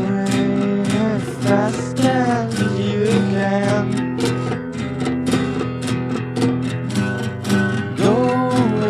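Music with no singing: strummed acoustic guitar chords under a melody line that bends and slides in pitch.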